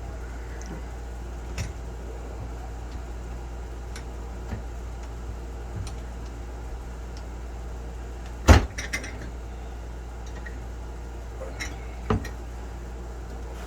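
Scattered metal clinks and taps from tools and parts as a furnace part is tightened up, with a sharp metallic knock about eight and a half seconds in and another a little before the end. A steady low hum runs under it.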